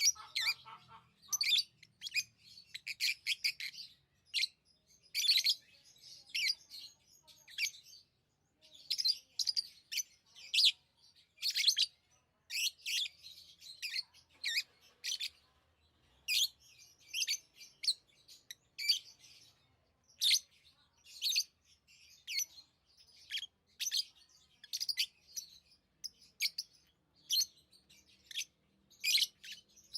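Pet lovebirds chirping: short, high chirps in quick bunches with brief pauses between.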